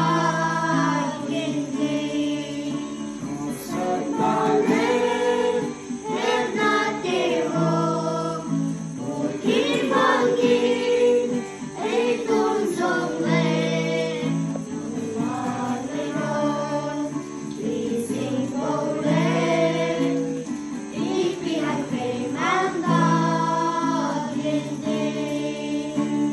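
Group singing of a gospel-style song with guitar accompaniment.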